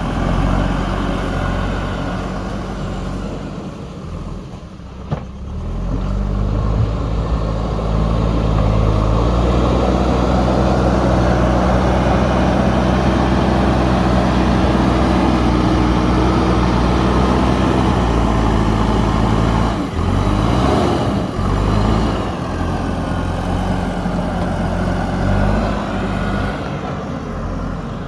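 JCB 3DX backhoe loader's diesel engine working, easing off about four seconds in and then revving back up and holding a steady high note for about twelve seconds, after which the revs rise and fall repeatedly.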